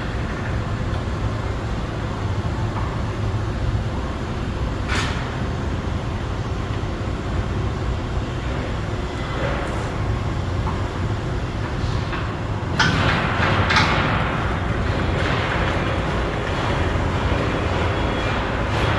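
Steady low machine rumble, with a sharp knock about five seconds in and a louder clatter of metal-sounding knocks about two-thirds of the way through.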